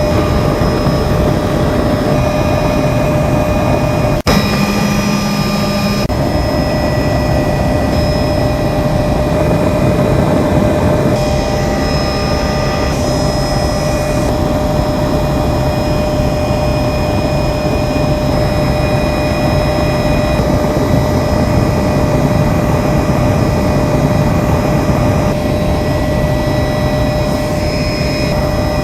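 Helicopter in flight heard from inside the cabin: a steady, loud engine whine with several held tones over a low rumble, and a sharp click about four seconds in.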